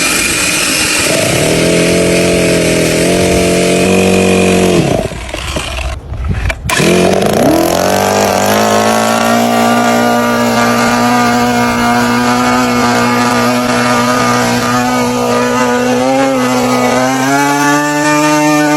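Small gasoline model-aircraft engine running on test. It changes speed in steps, drops out briefly about five seconds in, then comes back rising in pitch and settles into a steady run. Its speed steps up again near the end.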